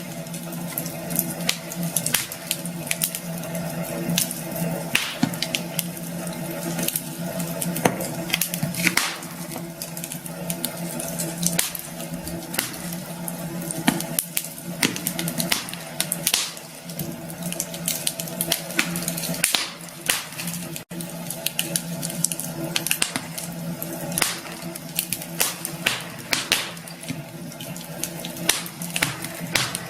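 Wood campfire burning, with irregular sharp crackles and pops over a steady hiss and a low steady hum.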